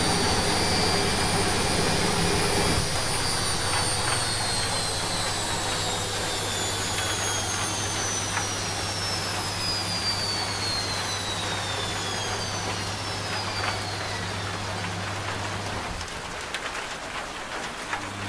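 Washing machine slowing down after its spin: a high motor whine falls steadily in pitch while a low hum runs beneath it and cuts out about two seconds before the end, over an even hiss of rain.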